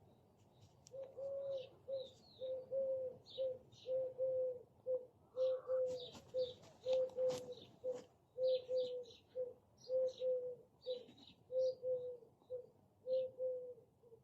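An animal giving a rapid run of short, low, even-pitched calls, about two a second, with faint high chirps in between.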